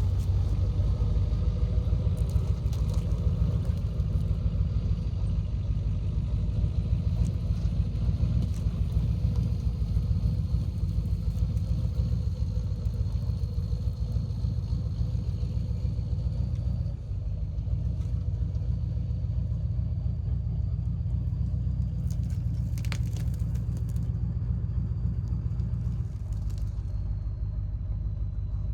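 Steady low rumble of a vehicle driving, engine and road noise, easing slightly about two-thirds of the way through.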